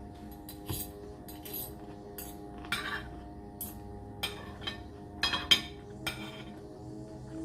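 Cutlery clinking and scraping against a plate of food while eating, about a dozen short irregular clicks, the loudest about five and a half seconds in. Soft background music runs underneath.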